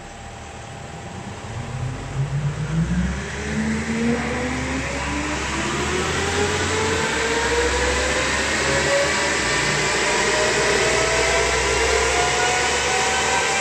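Skoda Kodiaq 2.0 TDI four-cylinder diesel pulling under full load on a four-wheel-drive chassis dyno during a power run. The sound builds over the first few seconds, then stays loud as a whine from the engine and the spinning wheels and rollers rises steadily in pitch.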